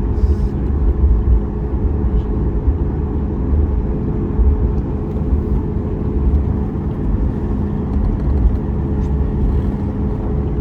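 Cabin noise of a Boeing 737 MAX 8 taxiing: its CFM LEAP-1B engines at taxi power give a steady hum with two constant tones, over an uneven low rumble.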